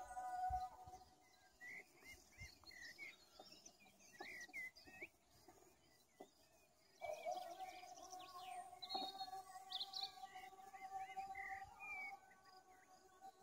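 Small songbirds chirping and calling in quick, short phrases. A faint steady droning tone with overtones fades out about a second in, comes back about seven seconds in and holds until near the end.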